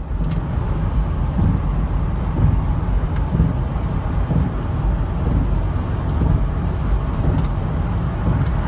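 A 2011 Ford Crown Victoria with its 4.6 V8 driving at freeway speed, heard from inside the cabin as a steady low rumble of engine and road noise.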